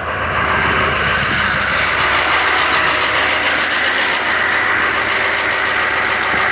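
1995 Chevy K3500's 6.5 L turbo-diesel V8 idling with a steady mechanical clatter, heard up close.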